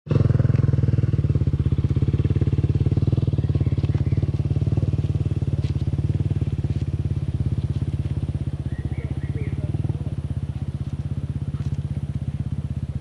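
Dirt bike engine running steadily with an even, rapid firing beat and no revving, starting abruptly right at a cut.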